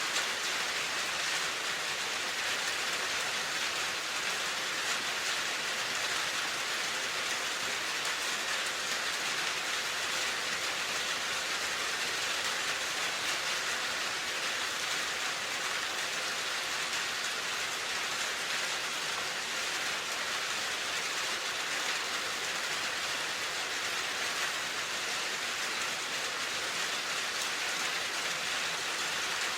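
Steady, even rain falling, a constant hiss of drops on a surface.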